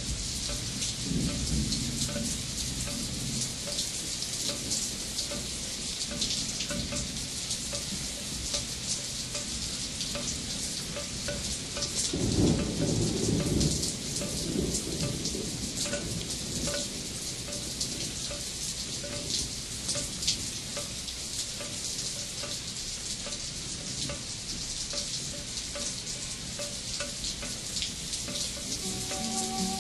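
Steady rain falling, with low rolls of thunder, the loudest one about twelve seconds in and lasting a few seconds.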